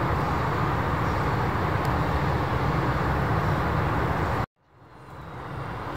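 Steady outdoor rumble of airport and road-traffic noise with no clear single event. It cuts off abruptly about four and a half seconds in, then fades back up.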